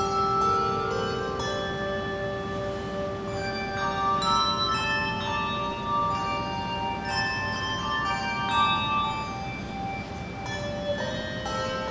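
Handbell choir playing a tune: bells struck one after another, each tone ringing on and overlapping the next.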